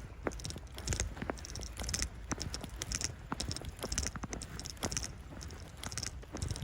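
Footsteps crunching through fresh snow at a steady walking pace, about one step a second.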